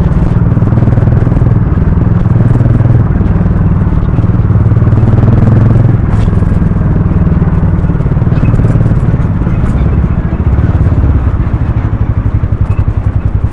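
Harley-Davidson X440's single-cylinder engine running through its exhaust, its pitch shifting as the throttle changes; near the end it settles into a slower, evenly pulsing beat.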